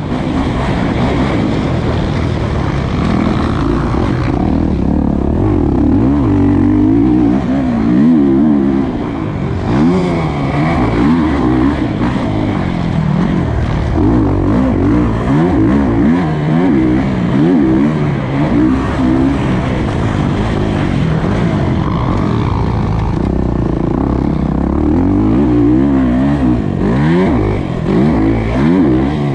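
Kawasaki KX450 dirt bike's single-cylinder four-stroke engine under hard riding, its pitch rising and falling again and again as the throttle is opened and shut.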